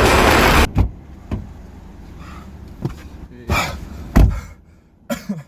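Background music cuts off about half a second in. Then come a few scattered knocks and clicks from handling a car door, with one heavy thump about four seconds in.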